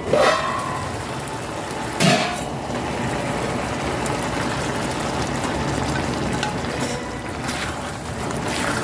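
Chicken and mushrooms sizzling in a frying pan, a steady frying hiss, with a single knock about two seconds in.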